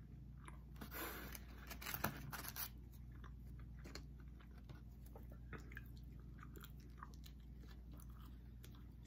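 People chewing and biting into pizza and cheese sticks, with many small mouth clicks. A louder crunching stretch runs from about one to nearly three seconds in, with a sharp click in the middle of it.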